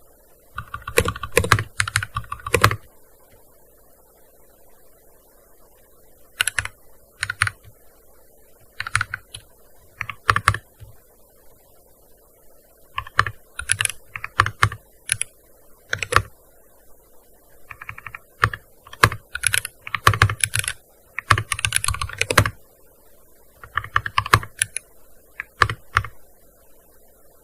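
Typing on a gaming keyboard: quick runs of key clicks in short bursts, broken by pauses of a second or more between them.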